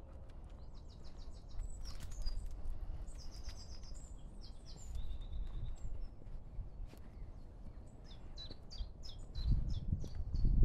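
Small songbirds singing: several short bursts of rapid, repeated high notes, over a low rumble that grows louder near the end.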